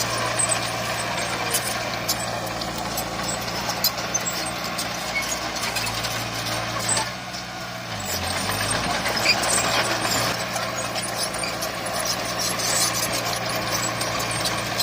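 Heavy diesel engine of earthmoving machinery running steadily, with scattered short clicks and clatter. The engine note drops and shifts briefly about halfway through.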